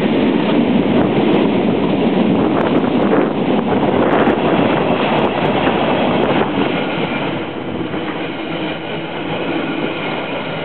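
Container flat wagons of a freight train rolling past close by, with a steady rumble and rattle of wheels on the rails.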